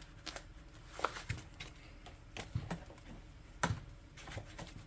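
Scattered light clicks and knocks of e-bike packaging and parts being handled, irregular, with the loudest knock about three-quarters of the way through.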